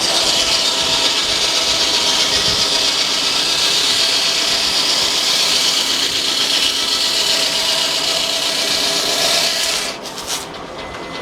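Frick sawmill's circular blade cutting steadily through a log in one long pass, ending sharply about ten seconds in.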